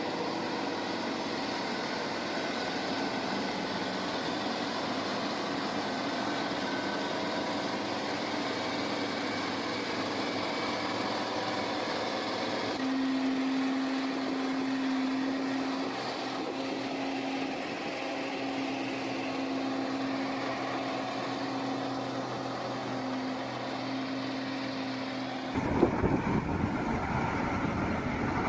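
Tractor diesel engines running steadily, heard across successive clips, with abrupt changes in the sound about 13 s and 26 s in. The last few seconds are louder and rougher.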